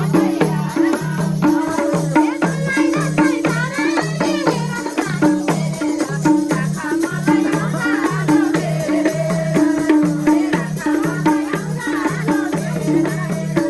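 Nepali dohori folk music: a hand drum beating a steady rhythm of alternating low and higher strokes, with a rattling shaker and melody lines over it.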